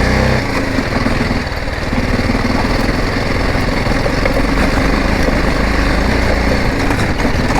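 Motorcycle engine running steadily while riding over a stone-paved off-road track, under a constant rush of wind and road noise.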